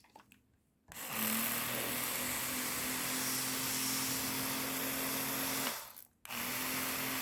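Electric automatic spray bottle running: a steady motor hum under a hiss of spray, for about five seconds. It stops briefly, then starts again near the end.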